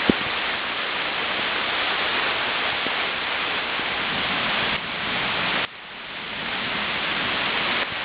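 Heavy tropical rain pouring steadily during a thunderstorm, as an even hiss. There is a single dull thump just after the start. A little past halfway the sound drops away suddenly and then swells back.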